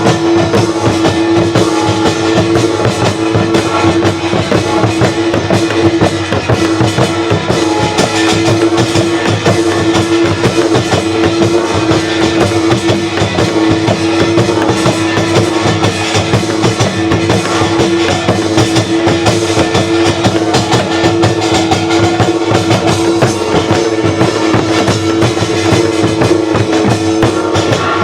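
Korean folk music played by a live ensemble: dense, continuous drumming with a steady held tone running over it, with no break.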